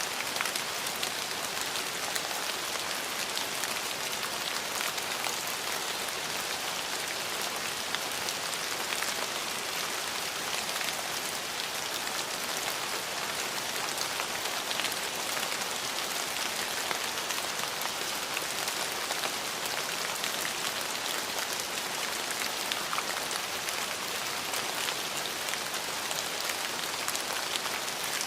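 Steady rain falling on hard surfaces, a continuous even hiss full of fine individual drop patters.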